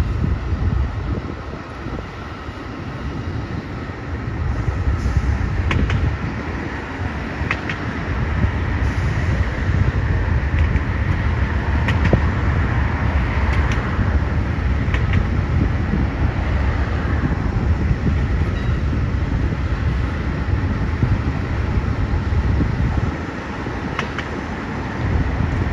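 Amtrak passenger train rolling by with a steady, loud rumble, marked by a few sharp clicks.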